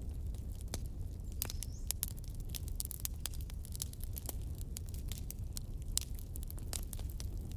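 Campfire crackling and popping in irregular sharp snaps over a steady low rumble, with a brief high whistle about a second and a half in.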